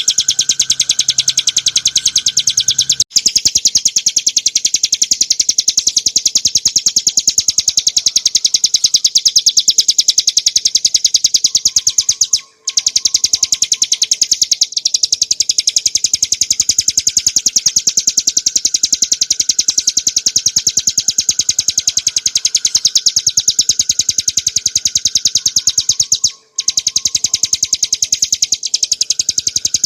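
Ciblek gunung, a small prinia, singing a continuous rapid run of sharp, high, evenly repeated notes, the 'ngebren' trill prized by songbird keepers. The run breaks off briefly twice, once about a third of the way in and once near the end.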